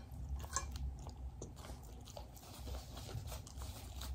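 A person chewing a mouthful of loaded hot dog topped with cheese and chips, with scattered small crunches.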